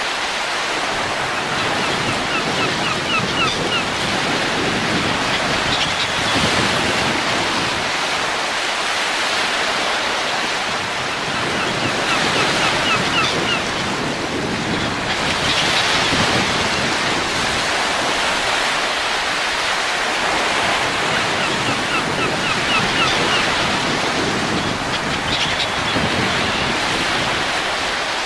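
Wind blowing steadily in slow gusts that swell and ease every few seconds. Short runs of faint high chirps recur about every ten seconds.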